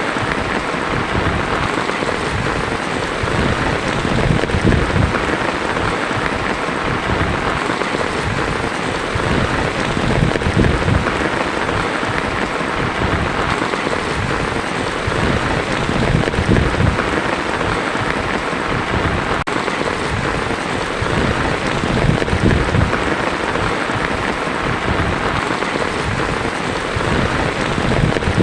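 Heavy rain drumming steadily on a tin roof, a dense even patter, with low thunder rumbles swelling and fading every few seconds.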